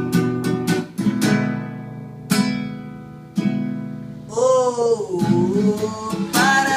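Acoustic guitar strummed in single chords about a second apart, each left to ring and fade. About four seconds in, a voice sings one drawn-out note that bends in pitch, and the strumming picks up again near the end.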